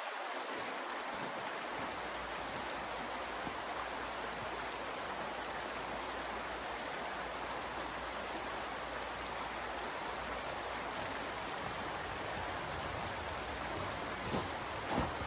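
Steady rushing blizzard wind, an even hiss with no gusts, with a few short clicks or taps near the end.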